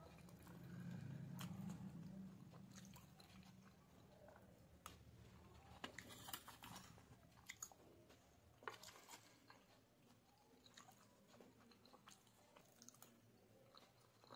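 Faint, close-up chewing of a mouthful of macaroni pasta, with scattered sharp mouth clicks. A low hum swells and fades in the first two seconds.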